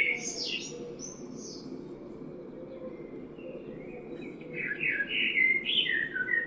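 A small songbird chirping in quick twittering phrases, with one burst at the start and another from about two-thirds of the way in, over a steady low background noise.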